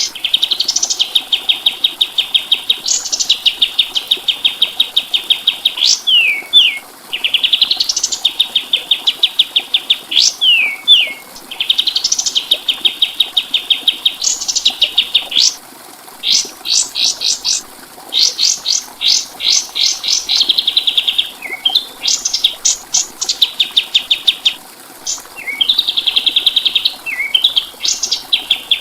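Kapas tembak songbird singing: long, fast trills of rapidly repeated notes at a steady high pitch, with quick upward-sweeping notes at the start or end of phrases. The phrases repeat with brief breaks between them.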